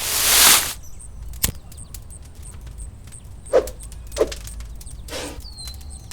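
Handling sounds: a brief rustling swish, then a sharp click and two dull knocks, with a short high whistle near the end.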